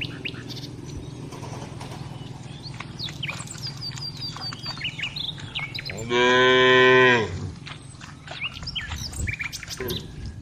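A cow moos once, a single call a little over a second long about six seconds in, with birds chirping in the background.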